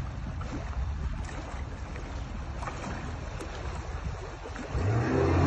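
Motorboat engine running at idle, steady and low, then revved up near the end, where it gets clearly louder.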